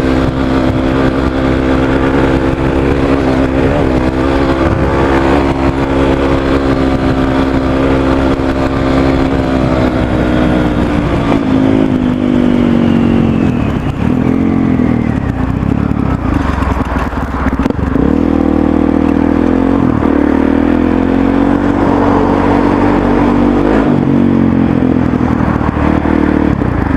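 Motorcycle engine breathing through a Yoshimura RS-3 exhaust with its quiet muffler insert fitted, ridden at a steady engine speed before easing off partway through. After that the pitch rises and falls as the throttle changes.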